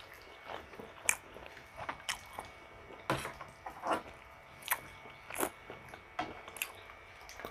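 Close-miked chewing of pork ribs kaldereta and rice: soft, irregular mouth clicks and smacks, about one or two a second.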